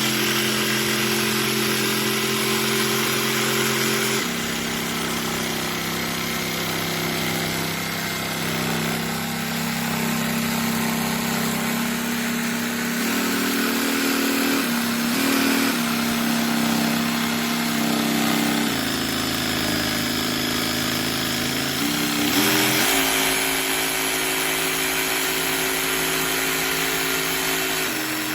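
Cordless DeWalt DCS334B jig saw's brushless motor running steadily with a hum. Its pitch jumps up and down in steps several times as the speed changes.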